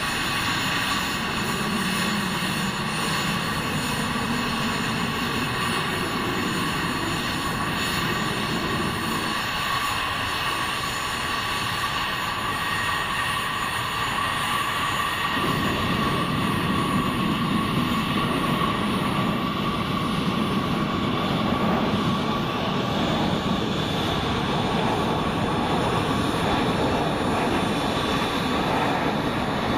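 Aircraft engine running steadily, with a high whine held throughout; the low rumble grows fuller about halfway through.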